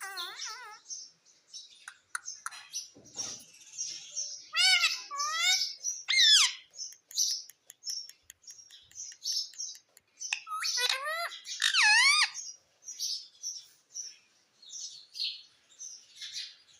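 Pet parrot chirping repeatedly, with louder calls that waver up and down in pitch, about five seconds in and again around eleven to twelve seconds in.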